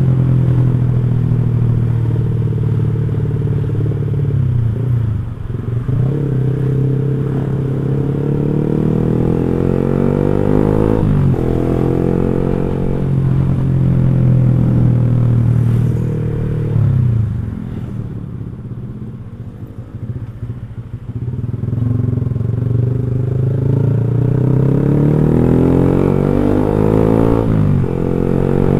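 Motorcycle with an X1 Speed aftermarket racing exhaust, ridden on the road. The exhaust note rises with the revs and drops sharply at each gear change, about four times, and goes quieter for a few seconds about two-thirds of the way through as the throttle is eased off.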